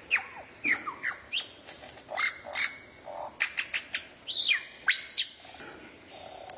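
A songbird's sharp whistled calls, each swooping up and down in pitch, with a quick run of clicky notes just after the middle; the loudest is a long high whistle that rises and then drops, about five seconds in.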